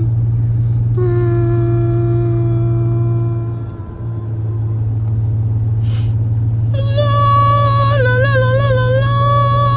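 A voice humming long, steady notes, then from about seven seconds a higher note that wavers up and down, over a steady low hum.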